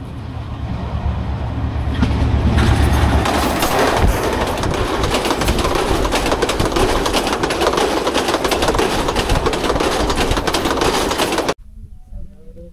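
Passenger train passing at close range: a deep locomotive rumble for the first few seconds, then the coaches rushing by with their wheels clacking over the rail joints. The sound cuts off abruptly near the end.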